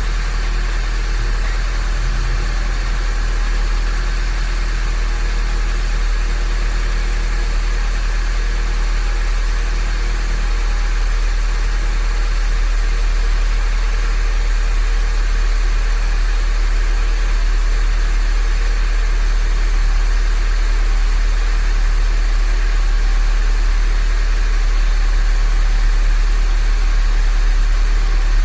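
Honda Grace GM9's engine idling steadily, still cold shortly after starting in a 5 °C garage, with a slow slight rise in level.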